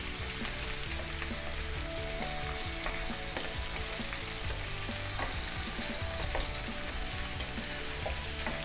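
Potatoes, mushrooms and carrots sizzling in hot oil in a frying pan, stirred with a wooden spatula that scrapes and knocks against the pan now and then.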